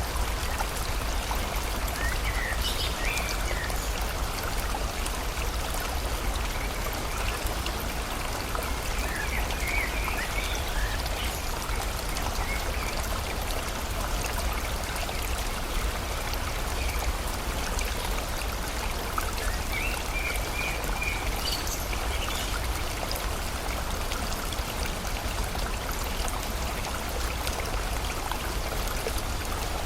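Steady rush of a flowing stream and falling rain, with a bird chirping in short bursts, about two, ten and twenty seconds in.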